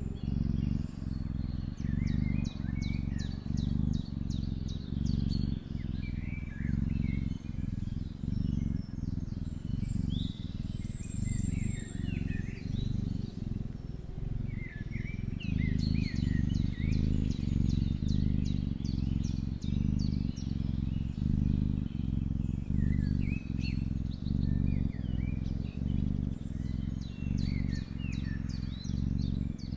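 Small birds chirping and giving quick, repeated trills, over a louder low pulsing hum.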